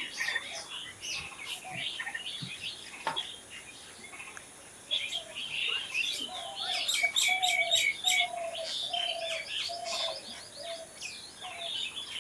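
Several birds chirping and singing together, a dense mix of short high chirps and trills that gets busier about five seconds in. A lower note repeats steadily under the chirps through the second half.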